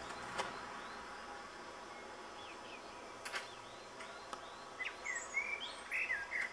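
Quiet outdoor ambience with small birds chirping: short chirps that come more often in the second half. There are two faint clicks, about half a second and about three seconds in.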